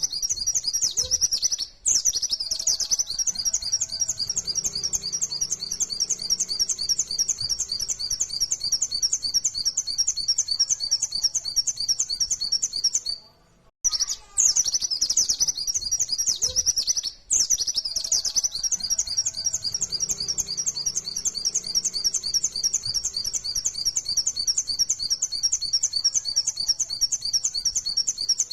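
A white-eye (pleci) singing a fast, unbroken run of high chirping notes in the rapid 'nembak' style. It breaks off briefly about halfway, then the same passage starts again, as a looped recording does.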